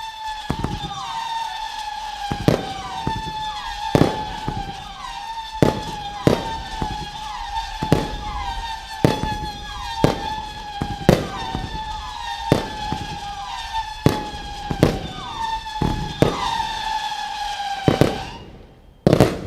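Moscow Mania firework cake firing a rapid barrage of whistling shots: a continuous shrill whistle that slides down in pitch again and again as each new shot takes over, punctuated by sharp bangs about once or twice a second. The whistling stops about a second before the end, followed by one last bang.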